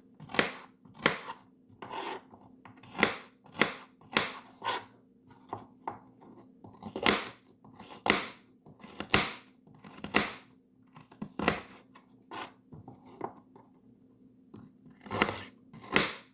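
Knife chopping baby carrots on a cutting board: sharp, separate cuts at an uneven pace of about one a second, with a short lull near the end before two more.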